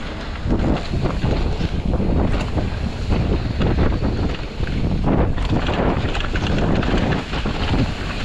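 Wind rushing over the microphone during a fast mountain bike descent, with tyre noise and frequent knocks and rattles from the bike over rough ground.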